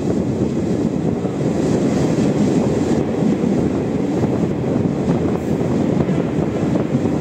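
Garib Rath Express passenger train running through a station without stopping: a steady, loud rumble of the coaches' wheels on the rails.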